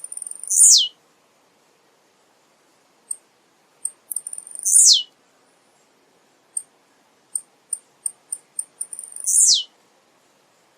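Male blue-black grassquit (tiziu) singing: a few short high chips that quicken into a stutter, then a loud note sliding down in pitch. The song comes three times, about every four to five seconds.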